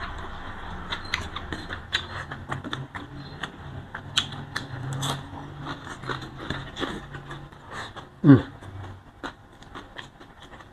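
Close-miked eating sounds of someone eating with their hand: chewing and lip smacking heard as a run of small wet clicks over a low steady hum. One louder short sound drops in pitch about eight seconds in.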